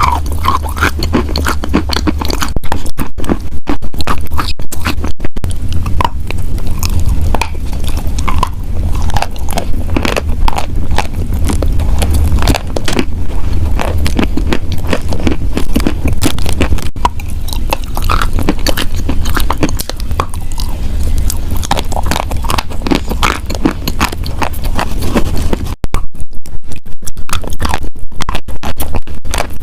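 Wet chalk coated in chalk paste being crunched and scraped, a continuous run of wet, crackly crunches. Near the end the crunches come denser and sharper.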